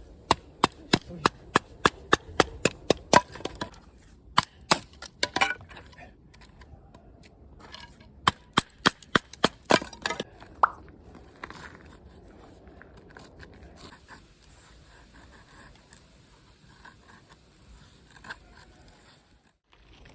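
Rapid, sharp wooden knocks of firewood being split, about three or four strikes a second, in two runs with a pause between.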